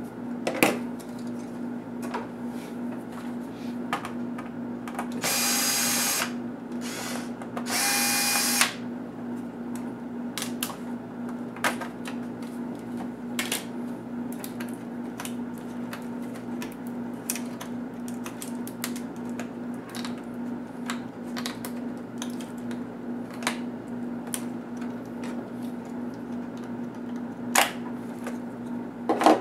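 A small electric screwdriver whirring in two short spells, taking out the screws of an ASUS A6000 laptop's case, with many light clicks of screws and tools on plastic in between. A steady low hum runs underneath.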